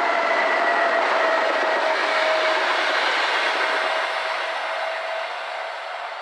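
A train passing by, a loud rolling rumble with a faint steady whine that fades over the last couple of seconds.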